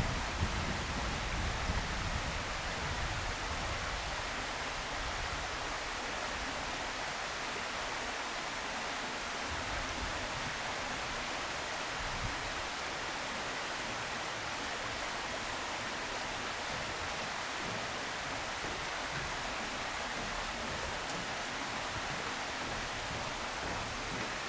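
Steady, even hiss with no distinct events, with some low rumble in the first few seconds.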